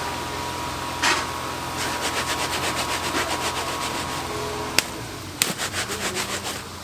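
A steady motor hum with a thin whine that cuts off about five seconds in. Over it comes a fast, even run of taps at about six a second, then a shorter run after the hum stops.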